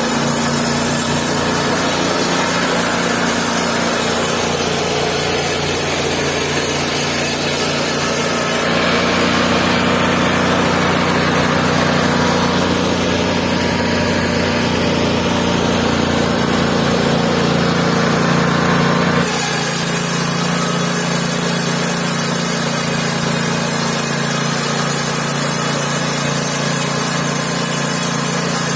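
Mobile band sawmill running, its engine droning steadily while the band saw cuts through wood. The sound shifts abruptly twice, about a third and two-thirds of the way through.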